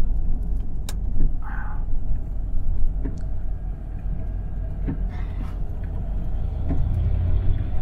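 Low rumble of a 1970 Buick Estate Wagon's 455 V8 and its road noise, heard from inside the cabin while driving, growing louder near the end.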